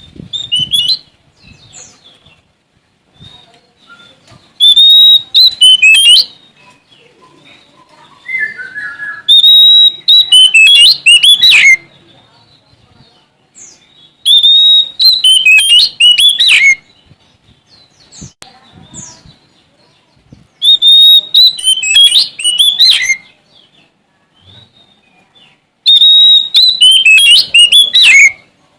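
Oriental magpie-robin (Sumatran kacer) singing: five loud song phrases of about two seconds each, coming every five or six seconds. Each phrase opens on a held high whistle, then breaks into quick varied notes and ends on a falling sweep.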